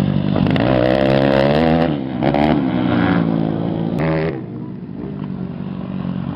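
Motocross bike engines revving hard, their pitch rising and falling as the riders work the throttle and shift. A sharp rise about four seconds in is followed by quieter engine sound.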